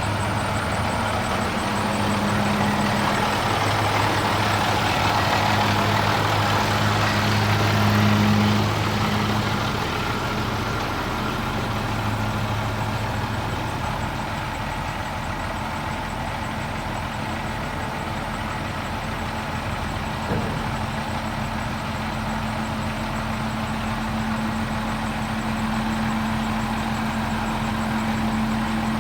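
A 1995 International 8100 tandem-axle truck's diesel engine running steadily, louder in the first ten seconds and then easing off, with a single click about twenty seconds in.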